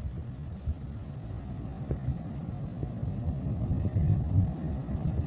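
Low, steady rumble of a train, with no sharper sounds standing out.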